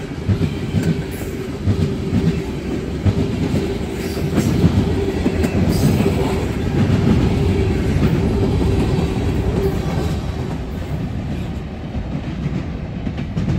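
CSX freight train's hopper cars rolling past close by: steel wheels clacking over the rail joints under a steady whine. The sound eases a little near the end as the last cars go by.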